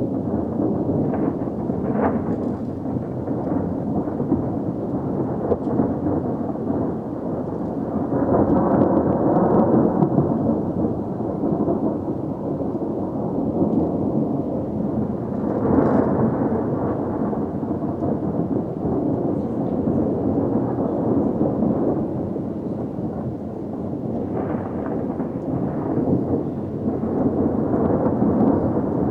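Thunder from an intense thunderstorm, rumbling almost without pause. It swells loudest about eight to ten seconds in, again around sixteen seconds with a sharper crack, and once more near the end.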